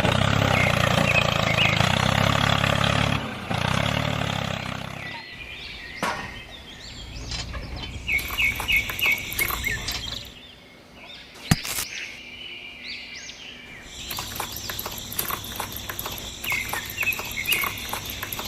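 A motor runs steadily for about five seconds and then stops. After that, birds chirp on and off, with scattered light clicks and one sharp tap about halfway through.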